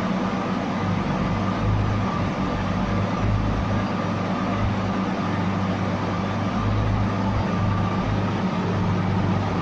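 Turbocharged BMW M50B25 2.5-litre straight-six running steadily at a constant engine speed on the dyno, with no revving.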